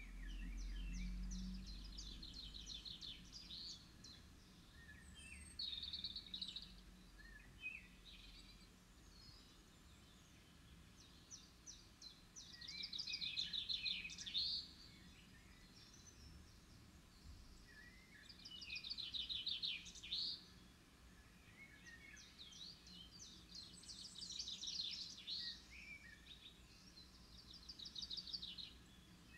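A small songbird singing in repeated phrases, each a fast trill of rapid notes lasting a second or two, coming about every five or six seconds.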